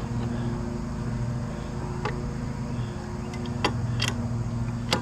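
Several sharp metal clicks and taps from hand tools working on a winch part, over a steady low machine hum.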